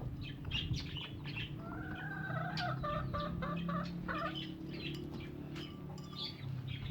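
Chickens clucking for a few seconds in the middle, with short bird chirps and small clicks around them, over a steady low hum.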